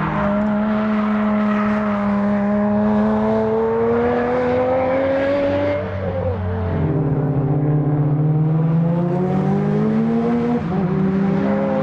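Time attack race car engine accelerating hard, its pitch climbing steadily through a gear, then dropping at an upshift about six seconds in and climbing again, with another upshift near the end.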